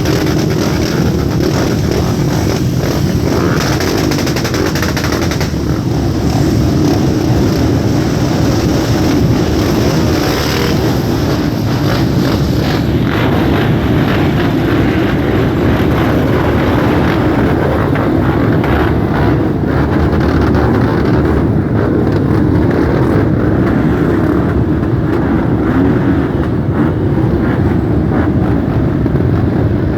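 Many motorcycle engines running at once as a group of motorbikes rides off, a loud, steady mass of engine noise with no single bike standing out.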